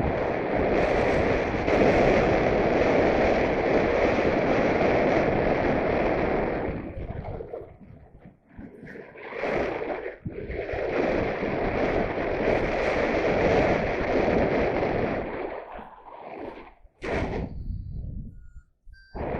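Wind buffeting the microphone in gusts, a loud rushing noise that drops away briefly a little before halfway and again near the end.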